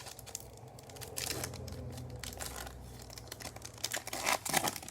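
Foil trading-card pack wrapper being torn open and crinkled, in irregular rustles, loudest near the end.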